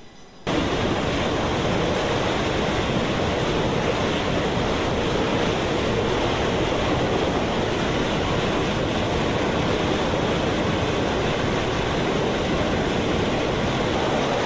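Loud, steady rushing noise on an aircraft carrier flight deck, starting abruptly about half a second in and holding level throughout.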